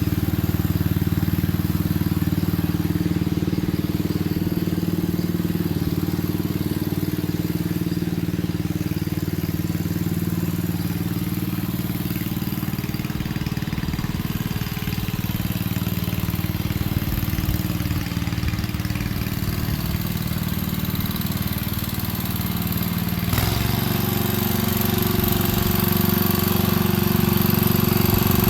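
Single-cylinder 7hp Briggs & Stratton engine of a 1967 Unico garden tractor running steadily. About 23 seconds in there is a sharp click, and the engine then runs louder with a shifted note.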